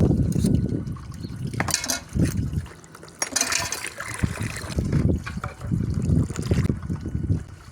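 Water splashing and trickling as dishes are washed by hand, in irregular sloshes, with a brief hiss of water about three seconds in.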